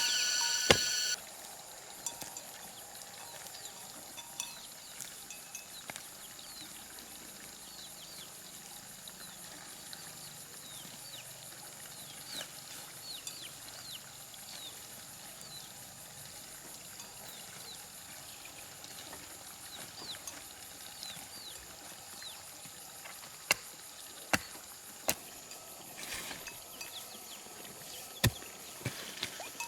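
Quiet outdoor ambience with many short, high, falling chirps and a few sharp knocks in the last few seconds. A loud, steady, tone-like sound cuts off about a second in.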